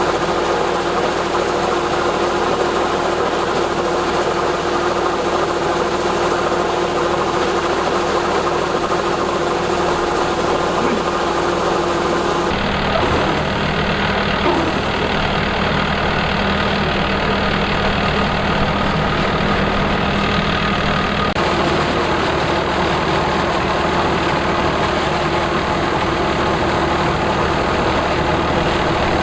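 Rice combine harvester's engine running steadily with a constant hum. The tone shifts abruptly about twelve seconds in and shifts back about nine seconds later.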